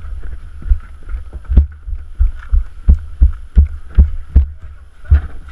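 Running footsteps, with the body-mounted camera and gear jolting on each stride: a steady series of heavy low thuds, about two to three a second, with wind hiss on the microphone.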